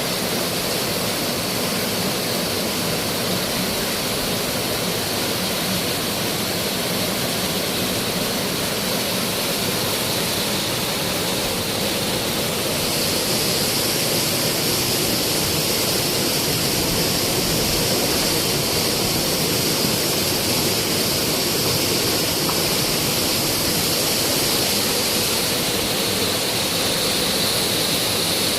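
Waterfall: the steady rush of falling water, growing a little louder and brighter about halfway through.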